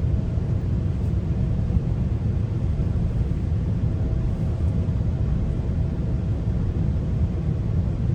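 Steady low rumble of a GO Transit commuter train coach running along the track, heard from inside the coach, with a faint steady hum above it.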